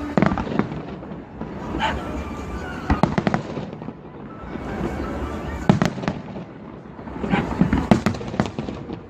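Fireworks shells bursting in scattered groups of sharp bangs and crackles, with a cluster about three seconds in, another near six seconds, and a denser run near the end.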